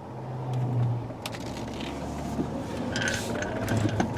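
Cabin noise of a 2016 Ford Explorer's 3.7L V6 driving off on a test drive after engine repair: a steady low engine and road hum, with the engine note slowly rising in the second half and a few light clicks and rattles.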